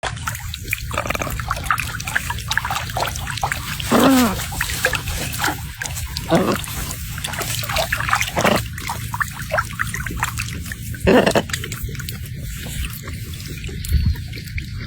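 Parrots calling over steady running river water: four loud squawks with bending pitch stand out, spread through the stretch, among many short chattering clicks.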